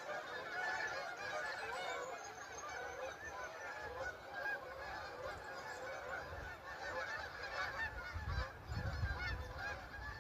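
A flock of Canada geese honking continuously, many overlapping calls at once, with a low rumble about eight seconds in.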